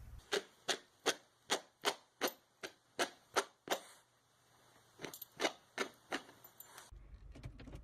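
A run of sharp, evenly spaced taps or clicks, about three a second, then a pause of about a second and four more taps.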